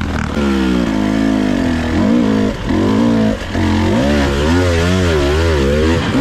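Husqvarna TE 300i two-stroke dirt bike engine revving up and down under constant throttle changes, with short throttle chops about two and a half and three and a half seconds in, then quick repeated rises and falls in revs near the end.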